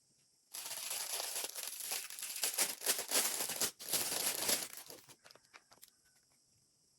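Packaging wrap being crinkled and pulled open by hand: dense crackling for about four seconds with a short break near the middle, then a few light clicks and rustles.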